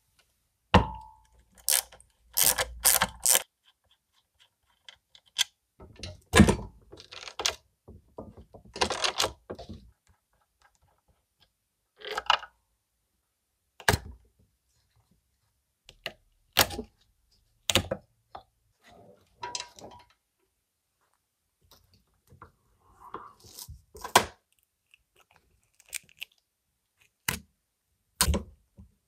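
Sporadic metallic clinks, knocks and thunks of steel suspension parts and hand tools being picked up and set down on a workbench. There are separate sharp hits with quiet gaps between them, several in quick succession a few seconds in.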